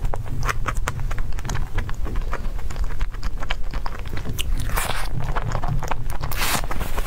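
Close-miked eating sounds: a soft cream-filled dessert being chewed, with many small wet mouth clicks and lip smacks. Near the end come short sucking sounds as cream is licked off the fingers.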